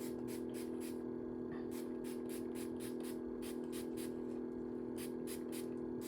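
Trigger spray bottle of water squirting in quick runs of short hisses, about five a second, dampening hair. A steady low hum sits underneath.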